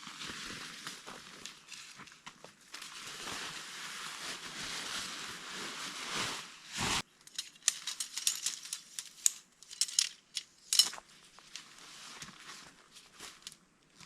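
Tent fabric rustling and crinkling while a tent is pitched, then after a sudden break a quick run of sharp clicks and clinks from the tent gear being handled.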